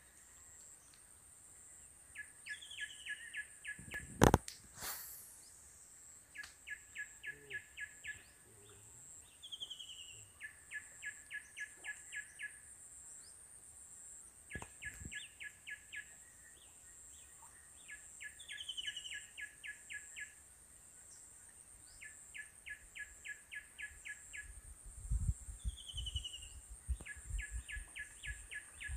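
A songbird repeating the same short song every few seconds: a quick falling whistle and a rapid, even trill of about eight notes a second lasting a second or two, over a steady high-pitched whine. A single sharp knock about four seconds in is the loudest sound, and low bumps of handling come near the end.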